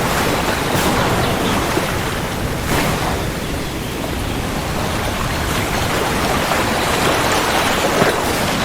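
Steady heavy rain, a dense even hiss with a low rumble underneath and a couple of brief louder spatters.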